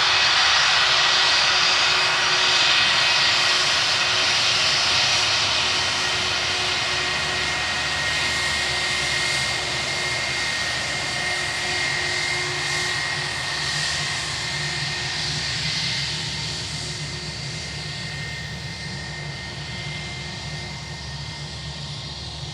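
British Airways jet airliner's engines running with a steady high whine as it taxis past toward the runway, loudest at first and slowly fading.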